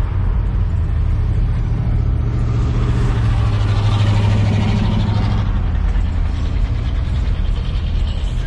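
A car engine running at a low, steady pitch, swelling a little about halfway through.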